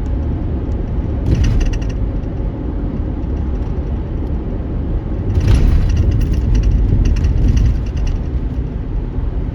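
Vehicle driving on an unpaved, dusty gravel road: steady low road rumble, with bursts of rapid rattling and clatter about a second in and again from about five to eight seconds in.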